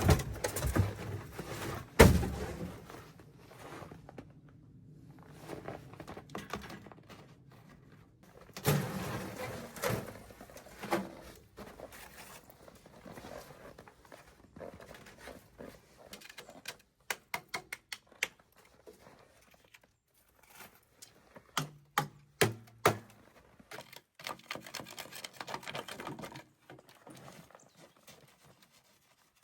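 Scattered thuds and knocks, with several runs of quick light clicks in the middle stretch.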